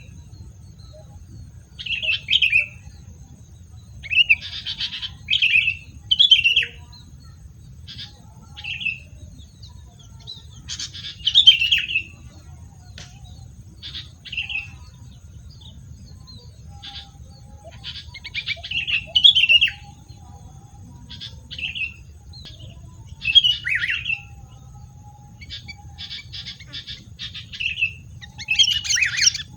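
A wild songbird calling in short, chirpy phrases that repeat every one to three seconds, some ending in a quick falling note, over a low steady rumble.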